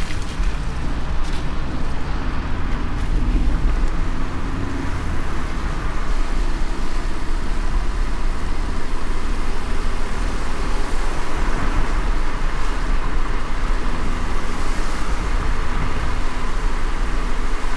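Car driving in light rain: a steady low road and engine rumble with an even hiss of tyres on the wet road.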